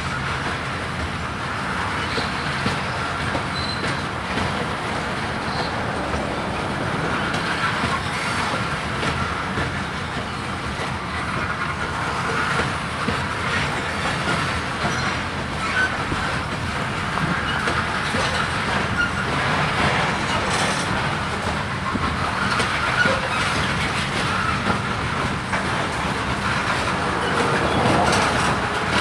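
Freight cars of a grain train rolling past steadily, their wheels clicking over the rail joints, with a little faint wheel squeal.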